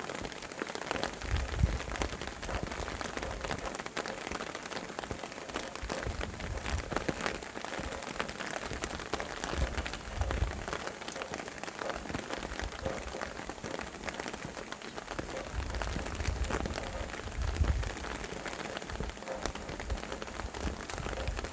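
Steady rain falling on surfaces, with many separate drops ticking. A few low gusts of wind swell and fade near the start, about halfway through and toward the end.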